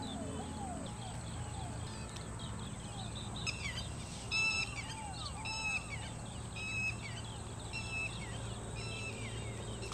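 Birds calling in a marsh: a run of short arched calls at first, then clearer, higher calls repeated about once a second, over a steady low background hum.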